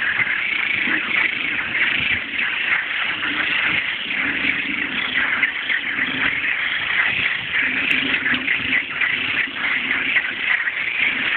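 Dense chorus of frogs calling: a steady, high-pitched mass of trills. A lower croaking comes and goes in stretches underneath. These are males' mating calls.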